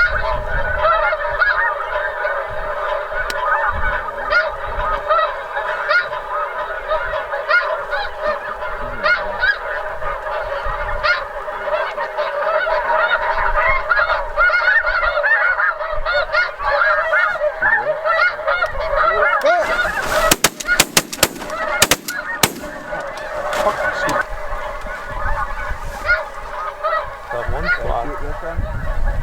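Snow geese calling: a dense, continuous chorus of high yelping honks from many birds. A few sharp knocks break in about 20 seconds in.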